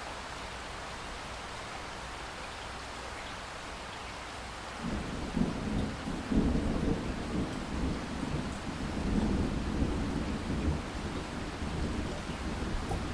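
Steady rain with a low rumble of thunder that breaks in about five seconds in and keeps rolling.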